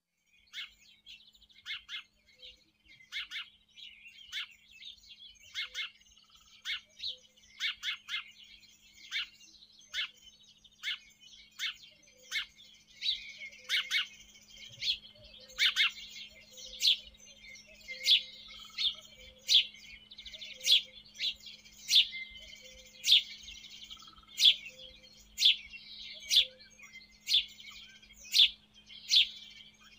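Sparrows chirping: short, sharp chirps repeated about once a second, growing louder and more frequent in the second half, over a continuous background chatter of further chirps.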